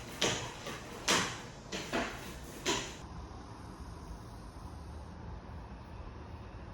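Five or so sharp knocks and clacks of household objects being handled in the first three seconds, then a low steady background hum.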